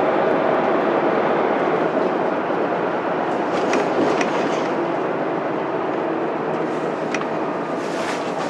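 Mitsubishi Fuso Aerostar city bus running, its 6M70 inline-six diesel droning steadily with road noise and a few sharp rattles and clicks from the body. The drone eases off gradually toward the end.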